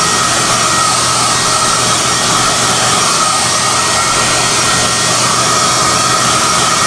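SOUNATE high-airflow hair dryer (XM-H008/YX-HM008-G) running steadily: a loud rush of air with a high fan whine that wavers slightly in pitch.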